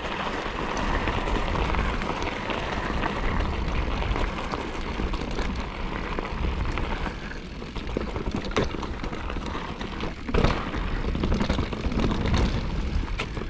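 Mountain bike rolling over rocky ground, with steady wind rush on the microphone and a low rumble. A few sharp knocks from the tyres and bike stand out, two of them late on.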